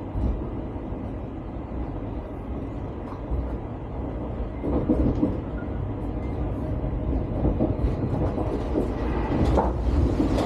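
Deutsche Bahn ICE train running, a steady low rumble heard from inside the carriage. In the second half there are some louder irregular knocks and rattles, with a sharp one near the end.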